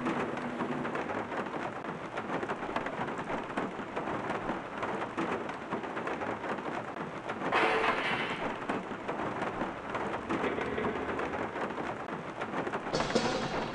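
Steady rain with thunder. A louder thunder crash comes about eight seconds in, and another rumble near the end.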